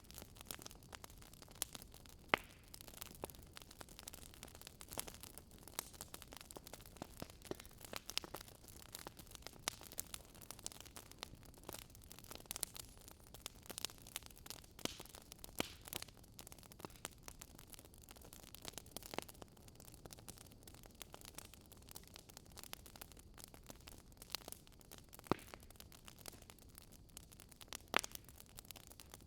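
Campfire crackling: irregular sharp pops and snaps of burning wood over a soft, steady hiss.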